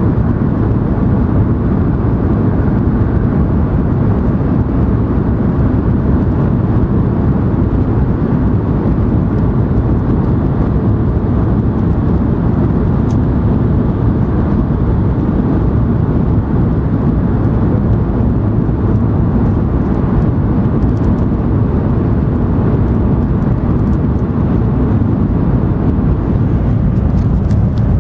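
Interior running noise of an N700 series Shinkansen, heard from a seat inside the passenger car: a steady, loud low rumble of the train under way.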